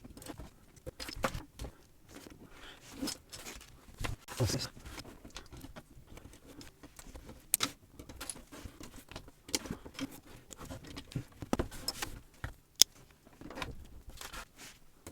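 Plastic building bricks clicking and rattling as pieces are handled and pressed together: irregular taps and clicks with soft rustling, one sharper click near the end.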